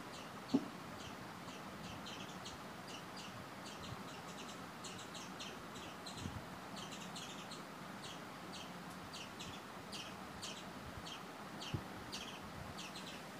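Faint, short chirps of small birds, repeated irregularly several times a second, over a steady low hiss. There is a single sharp knock about half a second in and a softer one near the end.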